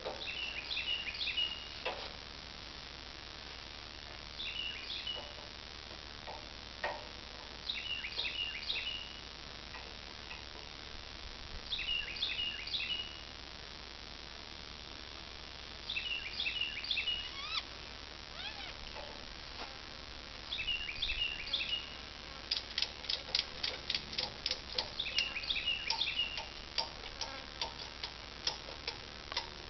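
A songbird repeats a short phrase of quick, high, falling notes about every four seconds. From about two-thirds of the way in, rapid sharp clicks come several a second, like a ratchet being worked.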